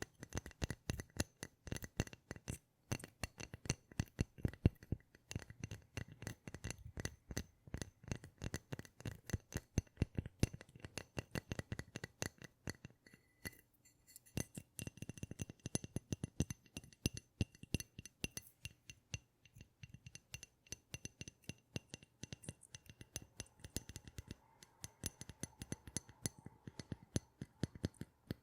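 ASMR tapping: rapid, irregular taps and clicks on hard objects, several a second, over a faint ringing tone.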